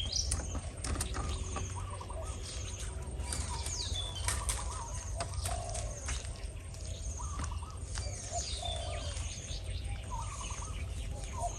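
Spotted doves cooing in short low phrases repeated every couple of seconds, a decoy dove and a wild dove with a deep voice calling to each other. Other small birds chirp and trill higher up throughout.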